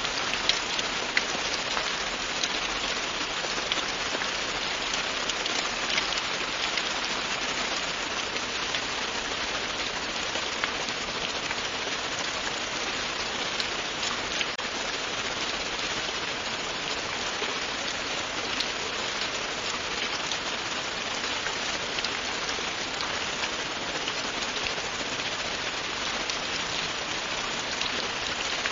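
Steady, continuous rain: an even hiss with scattered sharper drop taps, more of them in the first few seconds.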